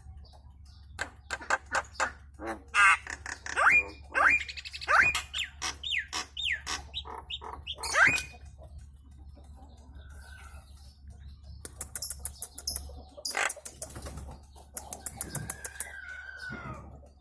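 A jalak kebo (Javan myna, a starling) calling: runs of sharp clicks, then a string of loud whistles that swoop up and fall back about a second apart. After a short pause come more clicks and a long falling whistle near the end.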